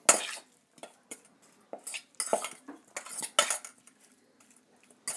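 A utensil clinking and scraping against a bowl in short, irregular strokes as raw chicken pieces are tossed to coat them in cornstarch, salt and pepper.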